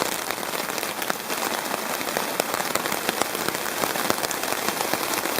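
Heavy rain falling steadily, with many individual drops striking close by as a dense crackle of small hits.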